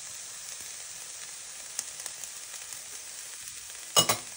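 Diced chicken breast with chopped herbs and garlic sizzling gently in a nonstick frying pan on turned-down heat. Near the end comes one sharp metallic clack, the spoon of curry powder knocked against the pan.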